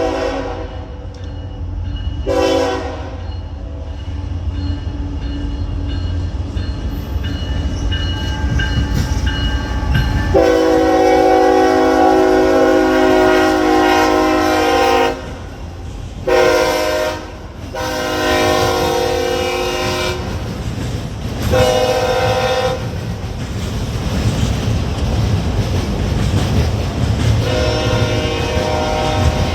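Diesel locomotive's multi-tone air horn sounding a series of blasts over the low rumble of a train on the rails: a short blast, then a long one of about five seconds, several shorter blasts, and another starting near the end.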